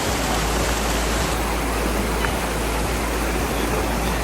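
Steady rushing of river water, with a low rumble of wind buffeting the microphone.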